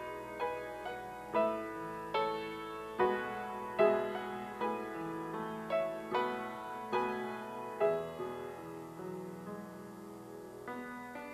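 Piano playing a slow, gentle instrumental piece, with chords and melody notes struck about once a second and left to ring. The playing eases into a softer held passage in the second half, and a new chord comes in near the end.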